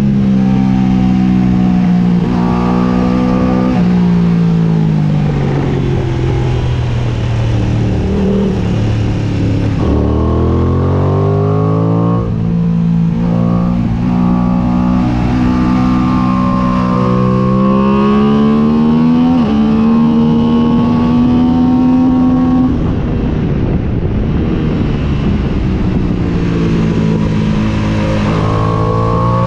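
Aprilia sport bike's engine heard from on the bike at track speed, its pitch climbing and dropping repeatedly as the rider works the throttle and gears.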